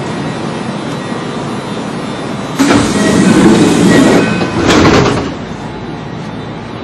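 Kintetsu Ikoma Line electric train standing at a platform with a steady running noise. About two and a half seconds in, a loud rushing noise starts and lasts about two and a half seconds, breaking briefly before a last short surge.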